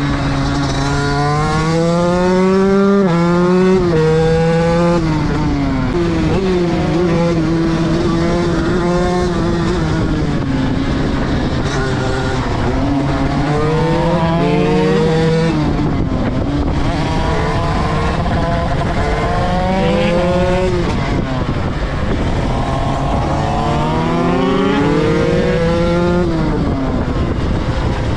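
Motorcycle engine accelerating hard through the gears, its pitch climbing and dropping back at each shift, in several separate runs. A steadier engine tone runs underneath.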